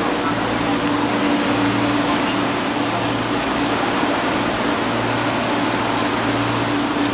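KTT double-deck electric through train running past: a steady rushing noise with a low hum that comes and goes in regular pulses about every second and a half.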